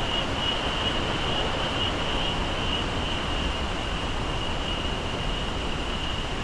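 Steady rushing roar of a large waterfall at Iguazú Falls, with a thin high-pitched buzz held on top throughout.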